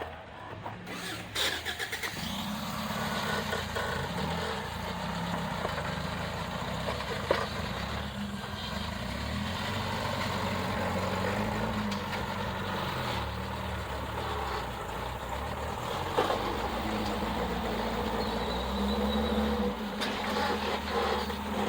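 An off-road vehicle's engine running at low speed and revving up and down as it crawls over rocks, with a few sharp knocks.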